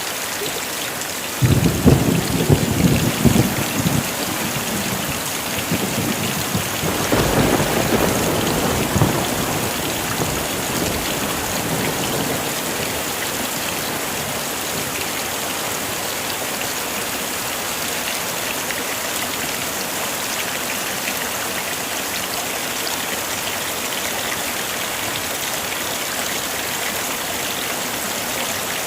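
Steady heavy rain hissing down, with a sharp clap of thunder about a second and a half in that rumbles for a couple of seconds, and a second, softer roll of thunder a few seconds later.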